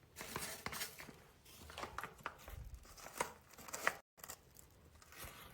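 Scattered paper rustles and light clicks from an old book being picked up and handled. All sound cuts out for a moment a little after four seconds.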